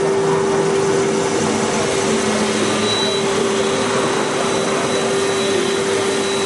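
Hager HD300A-CNC computer-controlled wood lathe running steadily: a constant tone over an even hiss.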